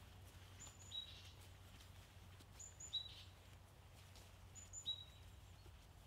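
A small bird calling four times, about every two seconds: each call is a couple of very high short notes followed by a slightly lower, briefly held whistle. Under it, near silence with a faint steady low hum.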